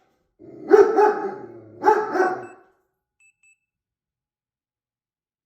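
German Shepherd puppy barking twice in quick bursts, warning barks at a stranger (a delivery man) at the house.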